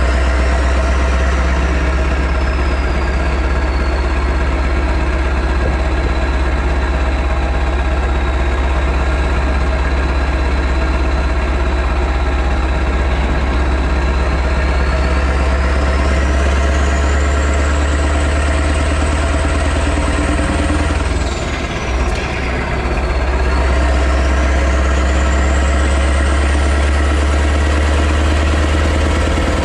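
Straight-piped V8 diesel truck engine idling steadily with a deep, even hum, dipping briefly about 21 seconds in. A high whistle glides up and down in pitch above it.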